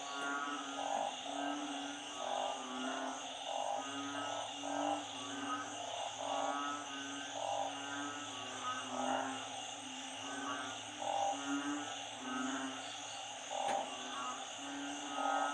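A chorus of frogs, narrow-mouthed frogs (อึ่ง) and small frogs (เขียด), calling together. Many short calls at several pitches overlap and repeat about every half second, over a steady high-pitched drone.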